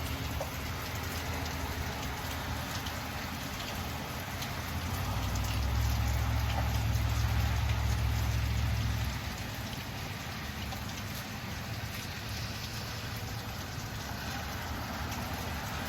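Heavy rain falling steadily, a dense hiss of drops hitting surfaces. A low rumble swells in for about four seconds midway, then drops back.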